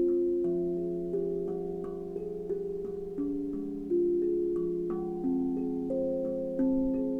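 Tuned instrument struck note by note in a slow, meditative sequence, a new note every half second to a second, each ringing on and overlapping the next.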